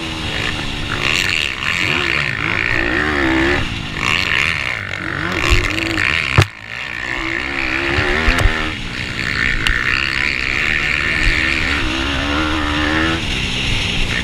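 Pitbike's GPcube lite 160cc single-cylinder four-stroke engine running hard, repeatedly revving up and dropping back. A single sharp knock about six and a half seconds in.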